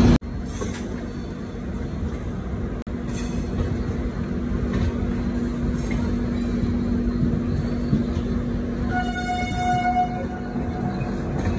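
Passenger train running over points and crossings, a steady rumble of wheels on rails with a few clacks. About nine seconds in the train's horn sounds once for about a second.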